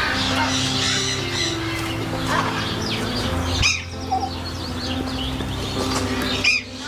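Bird chirps and calls over background music of long held notes, with two brief breaks where the sound cuts out for a moment.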